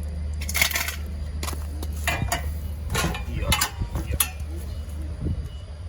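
Metal hand tools and generator parts clinking and clanking against the frame, about half a dozen sharp knocks at irregular intervals over a steady low hum.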